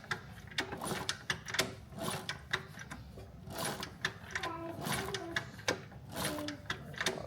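Honda Trail 70 engine being turned over by hand with its chain just put back on the sprocket: a run of irregular mechanical clicks and ticks, a few each second.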